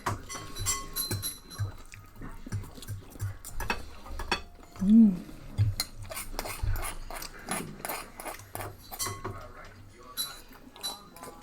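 Cutlery clinking and scraping on plates and dishes during a meal. About five seconds in there is one short voice sound that rises and falls in pitch.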